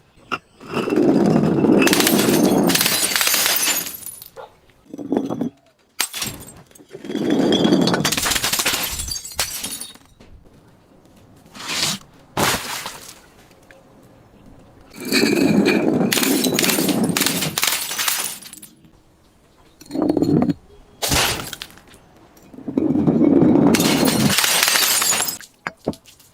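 Glass bottles being crushed and breaking: four long spells of crunching glass, each about three seconds, with a few short sharp cracks in between.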